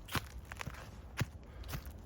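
Footsteps of a person walking on a forest path, about four steps in two seconds at an even walking pace.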